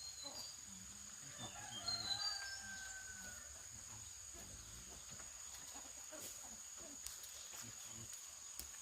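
A rooster crows once, about two seconds in, over a steady high-pitched insect drone.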